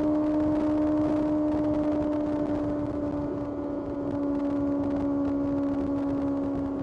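Kawasaki ZX-6R's inline-four engine running at steady high revs while riding, its pitch easing down slightly over the seconds.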